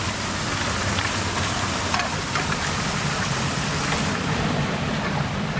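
Creek water rushing steadily, with a couple of faint knocks about two seconds in.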